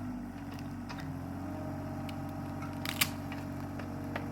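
Excavator's diesel engine running steadily, with a sharp crack or clank about three seconds in and a smaller one near the end.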